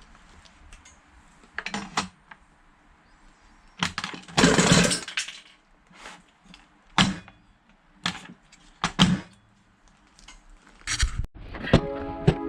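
Handling noises from work on a rice cooker: a string of separate knocks and clatters, with one longer scraping, rustling burst about four seconds in. Background music begins just before the end.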